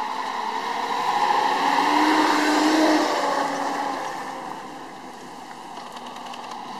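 Nissan Patrol 4x4 engine as the vehicle drives past through tall grass. The sound grows louder to a peak about two to three seconds in with a slight rise in pitch, then fades.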